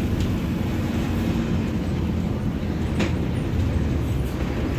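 Mercedes-Benz OF-1721 Bluetec 5 bus's front-mounted diesel engine running, a steady low rumble, with a single sharp click about three seconds in.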